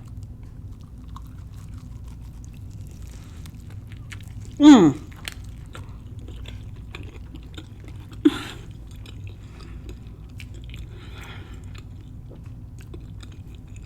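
Biting into and chewing a cornmeal-crusted fried catfish sandwich on a pretzel bun, with small wet clicks of chewing throughout. A loud falling "mmm" of enjoyment comes about five seconds in, and a shorter one just past eight seconds.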